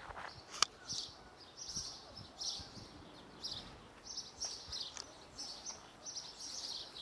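Small birds chirping in short, rapid clusters, about one cluster a second, with a single sharp click about half a second in.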